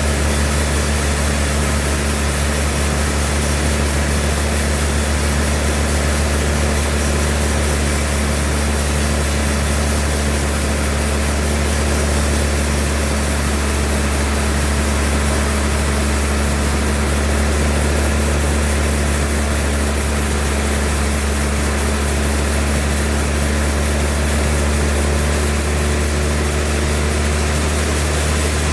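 Sawmill machinery running steadily: a constant, loud, low engine drone with an even hum and no break.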